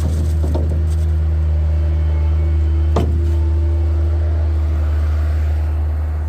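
A vehicle engine running steadily with a low, even drone, and one sharp click about three seconds in.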